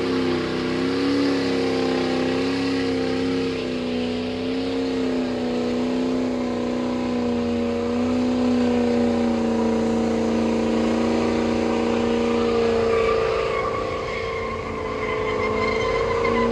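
Straight-piped 6.0 Powerstroke V8 turbodiesel held at high revs through a long burnout. Its pitch wavers up and down for the first half, then holds steady.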